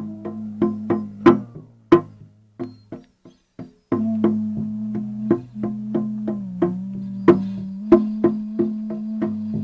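A musical instrument playing a steady low drone with a shifting overtone melody above it, struck sharply about three times a second. About two and a half seconds in, the drone drops out for over a second, leaving only the strikes, then comes back in.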